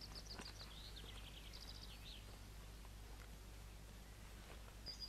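Faint songbird chirping in quick runs of high notes for the first two seconds or so, over a steady low hum and hiss; another high, held bird call begins near the end.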